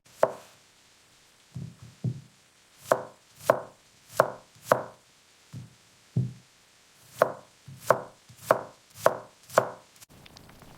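Knife chopping carrots on a cutting board: about a dozen separate strokes at an uneven pace, roughly two a second. Near the end the chopping stops and a faint steady hiss of rain takes over.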